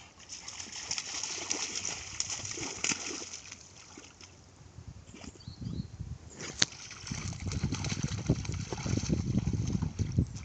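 Irregular splashing and sloshing of water.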